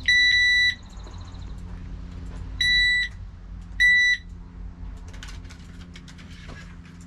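Handheld metal detector beeping three times as it is swept over a sawlog: a steady high tone of about half a second each, the first at the start, then two more close together a couple of seconds later. The signal is one the sawyer puts down to the detector being too close to the steel saw blade, not metal in the log.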